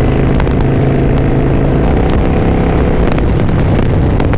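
Kawasaki Vulcan 900 V-twin cruiser engine running under way, a steady drone whose note changes about two seconds in.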